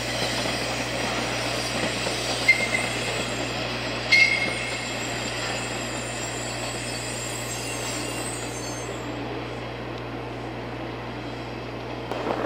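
Electric commuter train running along station tracks: a steady rumble of wheels on rail, with two short high wheel squeals about two and a half and four seconds in.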